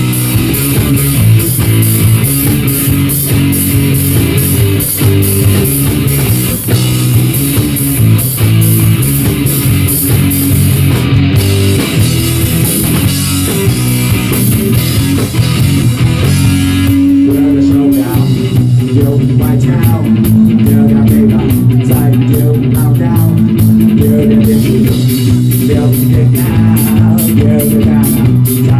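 Live rock band playing an instrumental passage with no vocals: guitar, bass and drum kit. About two-thirds of the way through, the busy cymbal wash thins out while the bass and guitar carry on.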